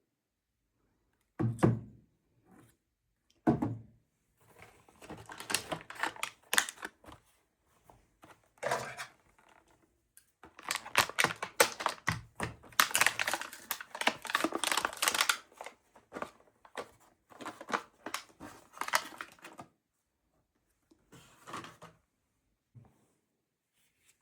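Objects being handled on a hard surface: two low knocks, then a long run of clicking, clattering and rustling, then a few scattered knocks near the end.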